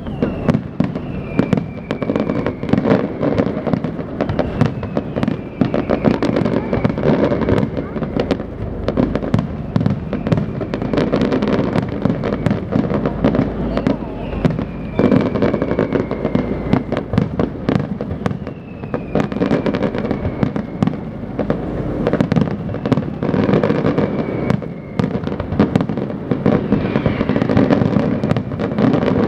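Aerial fireworks display going off continuously: dense crackling and bangs, with a thin whistle that falls in pitch, repeating about every two seconds.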